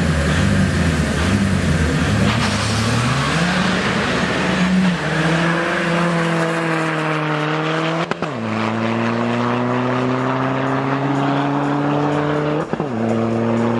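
Drag racing cars launching off the line and accelerating hard at full throttle. After a rough, noisy launch, one engine's note climbs steadily and drops sharply at two upshifts, about eight and thirteen seconds in.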